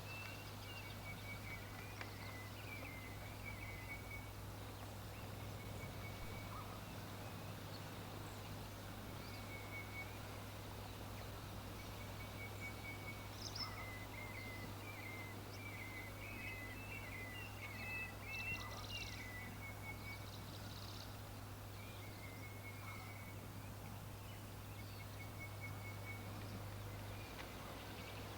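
Birds chirping in short repeated phrases, with a busier run of chirps about halfway through, over a faint steady low hum.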